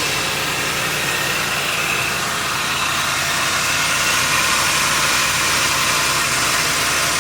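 Chevrolet Monte Carlo engine idling steadily, freshly started after sitting unused for about a year and a half.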